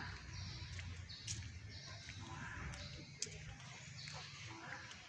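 Faint bird calls, short and high-pitched, coming on and off over a low steady background, with a couple of sharp ticks.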